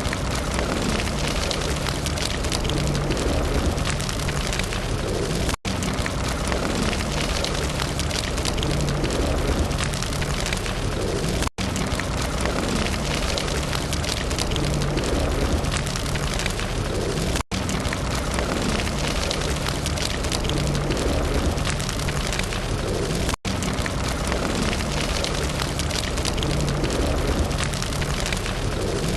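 Wood campfire burning with a steady hiss and dense crackling. The sound cuts out for an instant about every six seconds.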